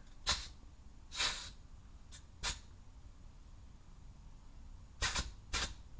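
Pneumatic grease gun pumping grease into a newly fitted grease nipple on a driveshaft: five short bursts of hiss, the second a little longer.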